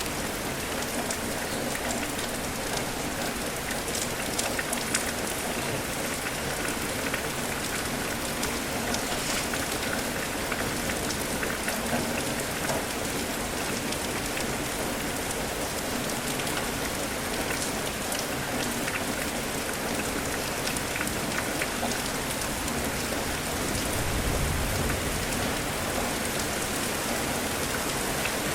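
Steady rain falling, with scattered sharper drop ticks, and a brief low rumble about 24 seconds in.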